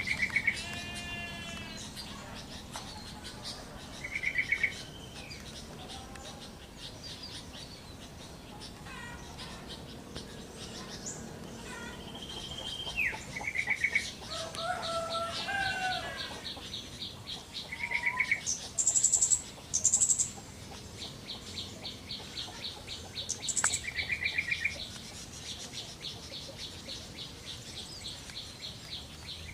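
Yellow-vented bulbul (trucuk) singing, with short bubbly phrases every few seconds among other birds' calls. A long, fast, even trill runs underneath through the second half.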